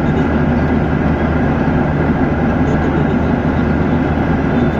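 Steady cabin noise of an airliner in flight: an even rush of air with a low engine hum underneath, unchanging in level.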